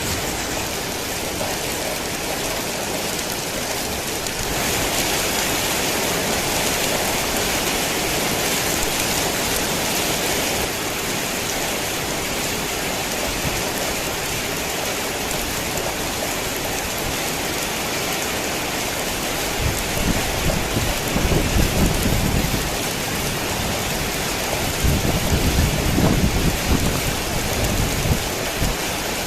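Heavy rain falling steadily, with two rolls of thunder rumbling low in the second half.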